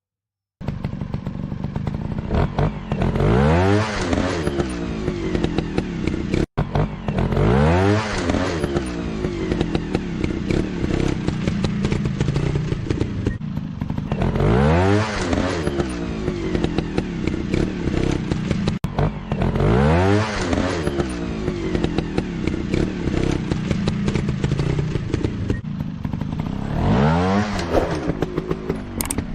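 Motorcycle engine running and being revved repeatedly, its pitch climbing sharply about five times, every five or six seconds, and dropping back to a steady run in between.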